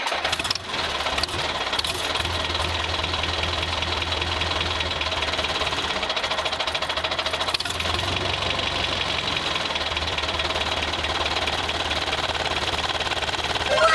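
Engine running steadily with a rapid, even knock, like a small diesel tractor engine at idle.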